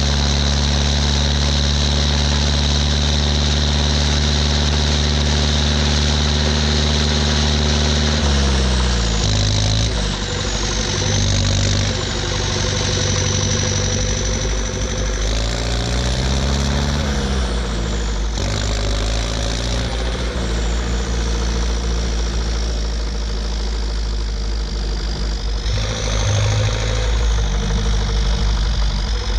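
Ursus 1014 tractor's four-cylinder turbo diesel on a straight pipe, under load from two loaded manure trailers. It runs at steady revs for about eight seconds, then the revs drop and climb again several times. A high turbo whistle rises and falls with them.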